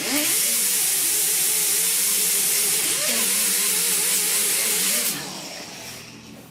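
Power grinder grinding down weld seams on sheet-metal patch panel, a loud hissing grind with a wavering motor pitch under load; the grinding stops about five seconds in and the tool spins down.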